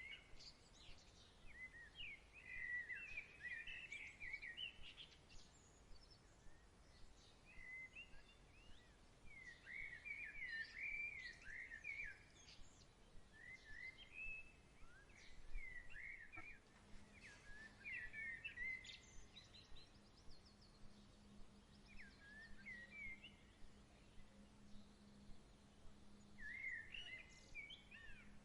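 Small songbirds singing short, chirpy phrases of quick up-and-down notes every few seconds over a faint hiss. A faint steady low hum comes in a little past halfway.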